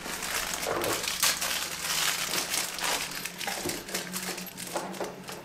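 Plastic packaging crinkling and rustling as it is handled, in an irregular run of crackles.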